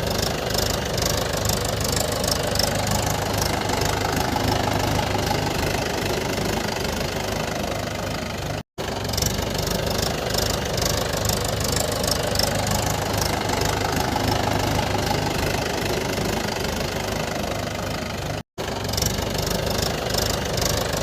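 Diesel engine running steadily in a repeating loop. The sound cuts out completely for an instant about nine seconds in and again near the end.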